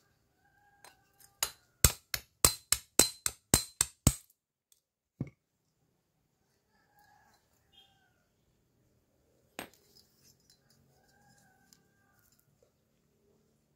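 About ten sharp metal-on-metal knocks in quick succession, roughly three or four a second, followed by two more single knocks, from tapping on a motorcycle cylinder head's valve gear to free the stuck intake valve.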